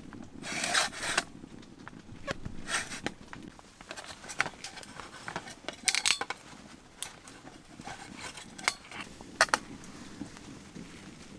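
Rustling and scraping with many short, light clicks and knocks scattered irregularly, as things are handled and put down.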